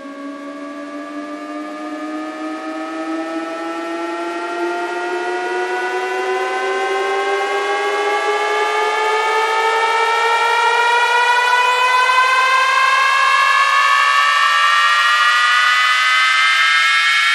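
Electronic DJ riser effect played through a loudspeaker: a buzzy synthesized tone that glides slowly and steadily upward in pitch and grows louder throughout, with several pitches rising together.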